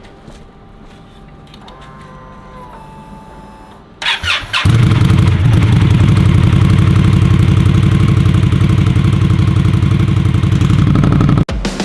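Indian Scout Bobber's V-twin engine being started: the starter cranks briefly about four seconds in, the engine catches and runs loud and steady at idle, then the sound cuts off abruptly near the end.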